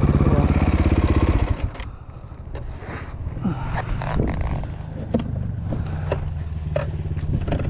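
Dirt bike engine running loud and even, then dropping back to a quieter idle about a second and a half in, with scattered clicks and knocks over the idle.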